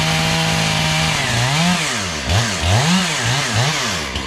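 Two-stroke chainsaw running at high speed for about a second and a half, then revved up and down about five times in quick succession before it drops back toward idle near the end.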